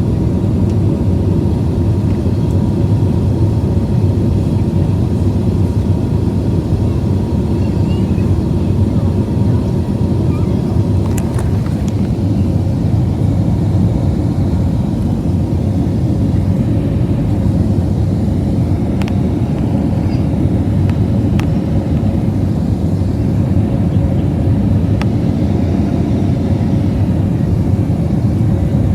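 Airbus A320 in flight, heard from inside the passenger cabin: a steady, loud rumble of engines and rushing air, with a faint steady hum over it and a few light ticks.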